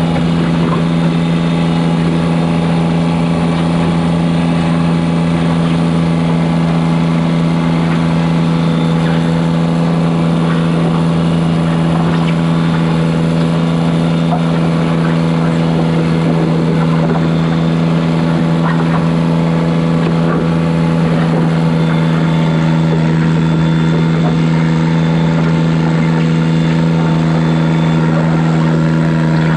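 Diesel garden tractor engine running steadily at one unchanging pitch.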